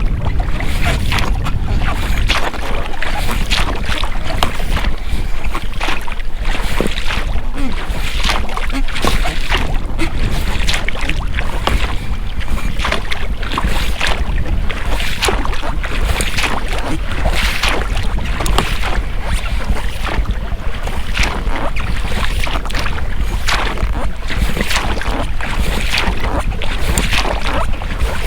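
Oars working an inflatable rowing boat: repeated splashes of the blades in the water and the creak of the rubber rowlocks, over a steady low rumble of wind on the microphone.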